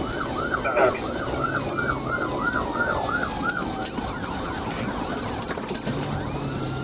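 Police car siren in a fast yelp, rising and falling about four times a second, fading out after about four seconds.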